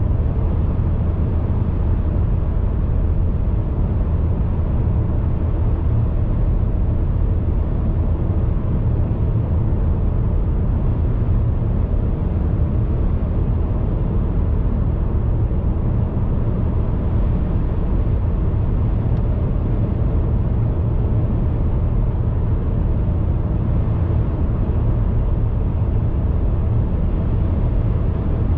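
Car driving at a steady speed: a constant low rumble of road and engine noise, unchanging throughout.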